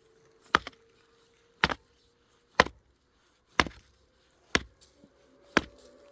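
Rhythmic chopping: six sharp blows, evenly paced about a second apart.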